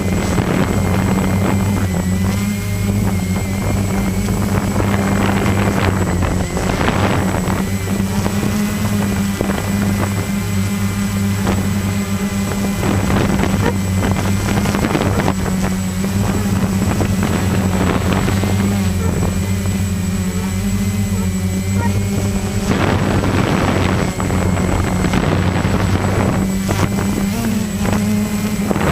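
A motor engine running at a steady speed, a constant low drone, with rushing wind noise on the microphone that swells every few seconds.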